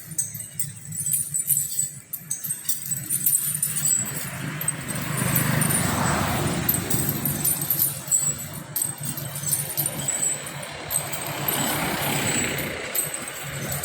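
Motor vehicles passing by, the noise swelling twice, about five and about eleven seconds in, over a steady low engine hum, with some faint light jangling.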